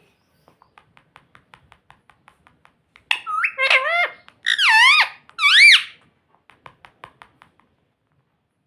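Ringneck parrot making soft clicking sounds, then a burst of four loud, squeaky high-pitched calls over about three seconds, each sliding up and down in pitch, followed by a few more faint clicks.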